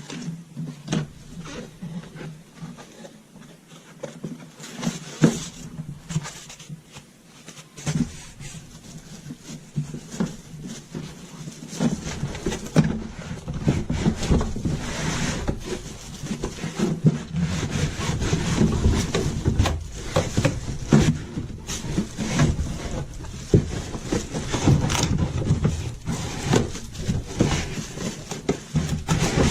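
Plastic humidifier parts being handled: irregular clicks, knocks and rubbing, with a low rumble joining about twelve seconds in.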